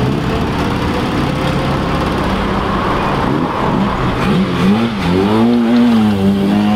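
The engine of a lowered Mk1 Volkswagen Caddy pickup runs steadily at low revs as it pulls out. About halfway through it is blipped in a few quick rises and falls, then held at a climbing rev toward the end.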